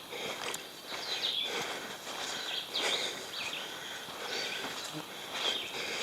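Slow, uneven footsteps crunching and rustling over rough portage ground, about one step every second and a half, over a steady background of insects.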